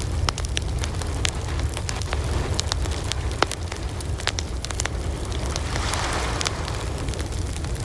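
Wood fire burning, with irregular sharp crackles and pops over a steady low rumble of flame. One louder pop comes about three and a half seconds in, and a short swell of hissing follows a little past the middle.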